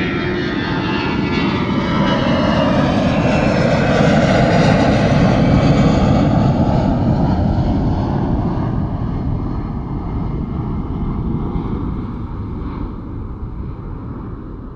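Jet airplane taking off and passing overhead: the engine roar swells to its loudest about five seconds in, then slowly fades away, its tone sweeping as the plane goes by.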